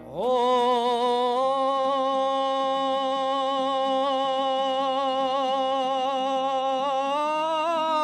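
A singer holds one long note that opens with an upward scoop and then stays steady with light vibrato, swelling slightly higher near the end before falling away. This is the drawn-out opening of a Kazakh folk song, sung over plucked-string accompaniment.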